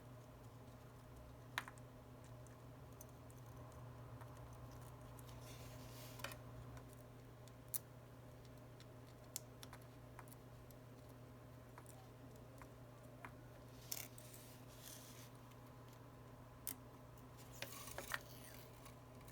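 Faint, scattered small clicks and brief scrapes of small tools handling tiny phone parts during reassembly, about a dozen sharp taps with a few short scratchy stretches, over a steady low hum.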